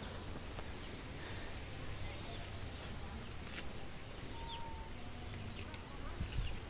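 Quiet rural outdoor background with a few short bird chirps and some light handling clicks.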